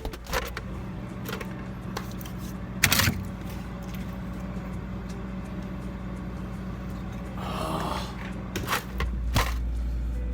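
Items being handled inside a refrigerator: scattered knocks, the loudest about three seconds in, and a short rattle of containers near eight seconds in, over a steady low hum that grows louder about nine seconds in.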